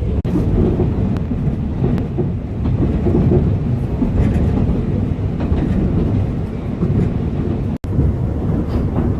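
Alishan Forest Railway narrow-gauge train running, a steady heavy rumble of the wheels and carriage with faint scattered clicks from the track. The sound drops out for an instant near the end.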